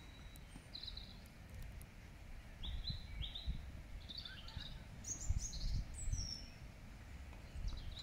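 Small birds chirping in short, scattered calls over a low, uneven rumble.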